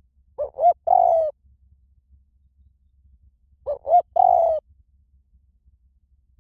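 Spotted dove cooing twice, about three seconds apart: each phrase is two short coos and then a longer, drawn-out one.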